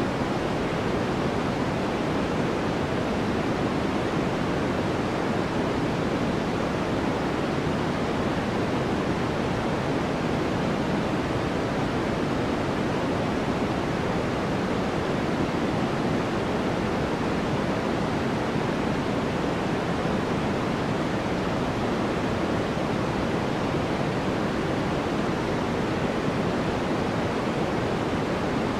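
Steady, unchanging noise-machine hiss from a white-noise study track, deep and rushing like a waterfall rather than bright, with no change or events throughout.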